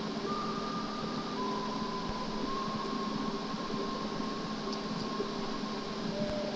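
Steady mechanical hum and hiss, with a faint thin whine that shifts pitch in small steps and a few light clicks.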